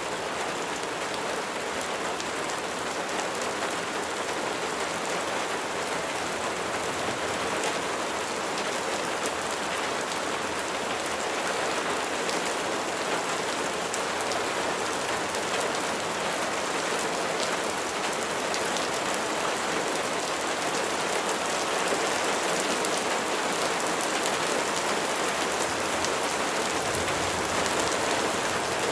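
Steady rain falling, with many raindrops pattering on a surface; it grows slightly louder over the stretch.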